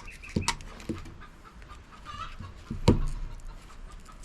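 Sharp clicks and snips of wire cutters cutting through appliance wiring, a few strokes with pauses between, and a chicken clucking briefly in the background a little after two seconds in.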